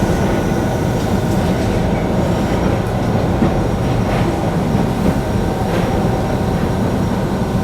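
Keihan Keishin Line train running along the track, a steady low rumble of wheels and motors with a few faint clicks over rail joints, heard from inside the car.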